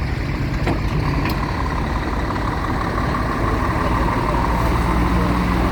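Heavy vehicle engines running steadily at low speed, with a faint whine that rises slightly through the middle.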